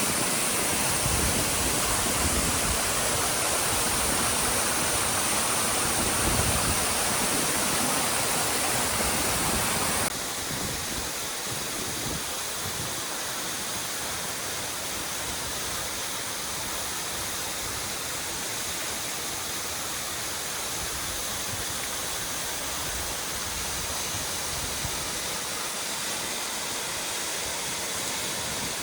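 Steady rush of water from a mountain waterfall. About ten seconds in it drops suddenly to a quieter level.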